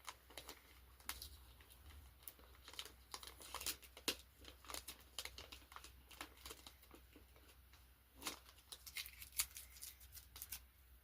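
Gift wrapping being handled and torn open, faint and irregular crinkling and ripping.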